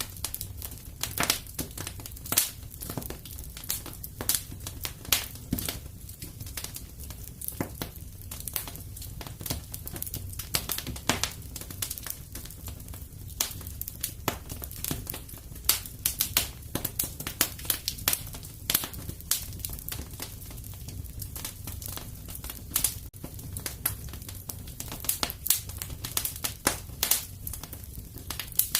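Wood fire crackling in a fireplace: irregular sharp pops and snaps, several a second, some louder than others, over a steady low sound of the burning.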